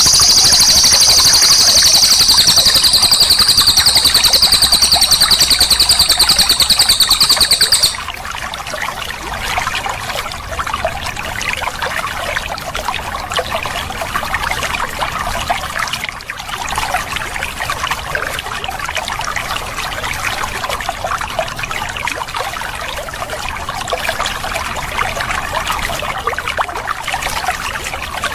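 A cililin songbird giving a loud, very high, rapid trill that stops abruptly about eight seconds in. Gently flowing, trickling water runs underneath throughout.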